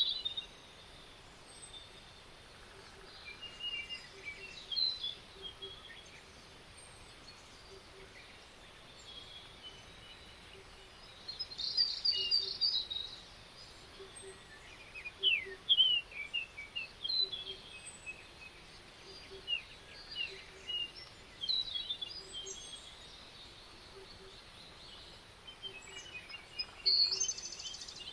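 Several songbirds singing and calling in a spring forest, with scattered chirps, short rapid trills and quick falling notes over a faint steady background; the loudest phrases come about twelve seconds in, around fifteen seconds, and near the end.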